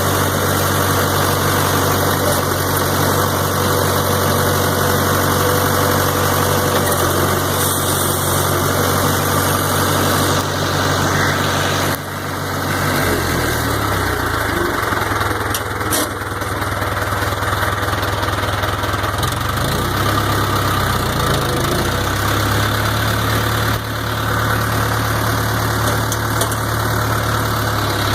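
International Harvester 584 tractor's four-cylinder diesel engine running steadily. About twelve seconds in, the engine note drops and wavers for roughly ten seconds, then settles back to a steady run.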